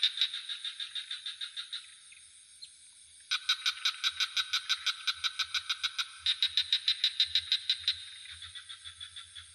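Frogs calling in rapid pulsed trills of about seven notes a second, in bouts of a few seconds that start abruptly and die away. A steady high-pitched insect drone runs underneath.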